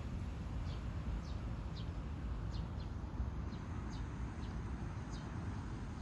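Small birds chirping: short, high chirps about every half second, over a steady low rumble.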